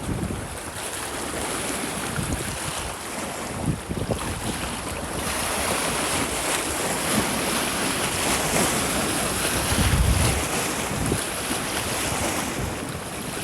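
Strong wind rushing through trees, growing louder and hissier about five seconds in, with gusts buffeting the microphone in low rumbles.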